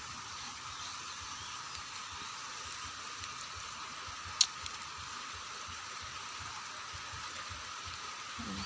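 Steady light rain falling, with a steady high tone underneath and one sharp click about four seconds in.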